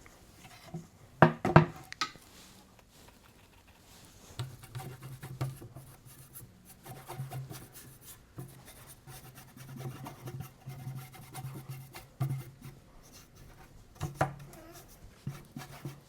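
Paintbrush scrubbing and rubbing paint onto a painting panel, with two sharp knocks about a second and a half in and another near the end. A low hum comes and goes through much of it.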